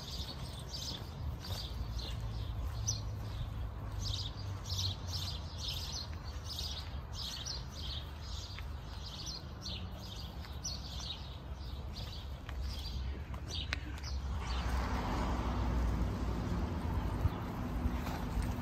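Small birds chirping in a quick repeated series, about two chirps a second, over a low steady rumble. About fourteen seconds in, the chirps die away and a broader rushing noise swells up and holds.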